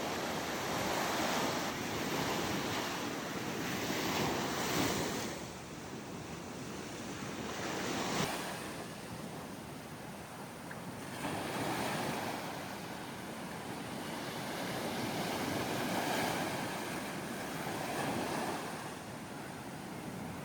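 Ocean surf breaking and washing up on the beach, swelling and ebbing every three to four seconds, with some wind noise on the microphone.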